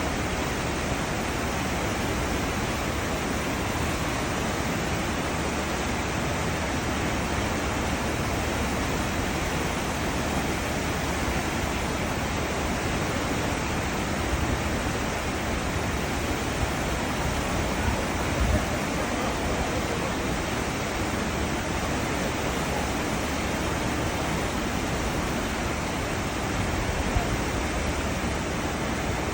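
Cruise ship's wake: a steady rush of churning seawater with a low rumble underneath.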